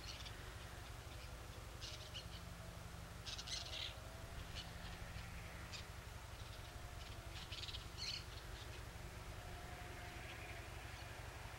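Faint bird chirps and calls, scattered and short, with a few soft whistled notes, over a low steady rumble.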